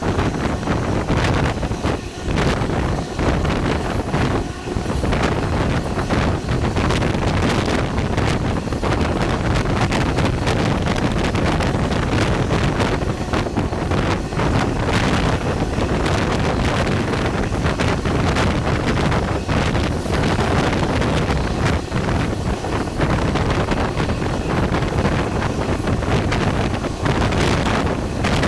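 Carajás passenger train running along the track: a steady rumble of wheels on rails with heavy wind buffeting the microphone.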